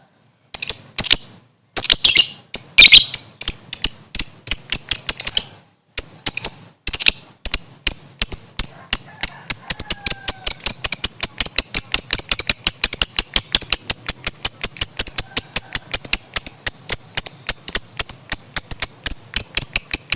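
Lovebird chirping: a fast run of short, shrill high chirps, in broken bursts with brief pauses at first, then an unbroken rapid stream from about six seconds in.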